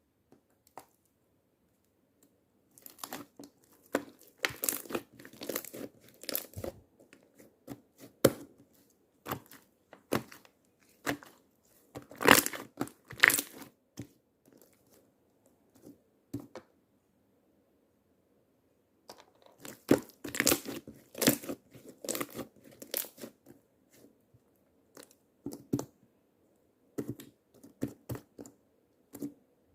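Slime being squeezed and worked by hand, giving clusters of sharp crackles and clicks in several bursts with quiet pauses between them.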